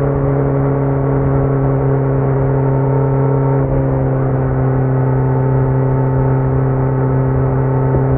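2018 Kawasaki Z900's inline-four engine through a Leo Vince muffler with the dB killer removed, running at steady revs: an even, held drone with no change in pitch.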